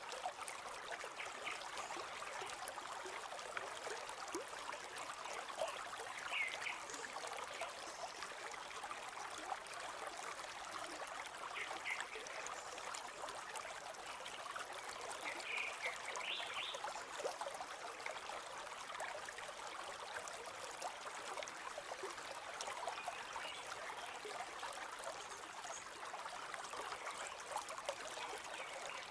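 River flowing steadily, a continuous trickling rush of water, with a few brief higher-pitched sounds standing out over it now and then.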